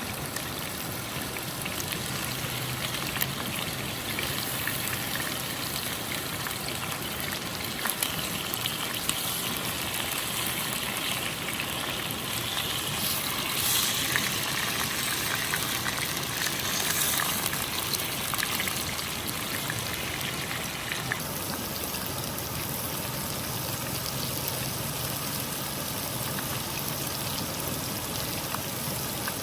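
Water running and trickling steadily, louder for a few seconds in the middle, with a few small splashy clicks.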